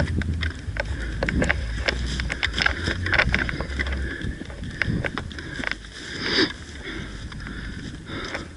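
Scattered clicks, knocks and rustles of a player moving on foot through brush with his gear, with a low wind rumble on the microphone for the first four seconds or so and a louder brief scrape about six seconds in.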